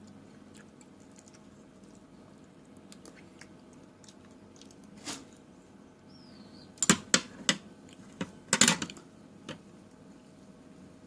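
Close-miked crunching of crisp fruit being bitten and chewed: a few soft clicks, then a run of loud sharp crunches in two quick clusters in the second half.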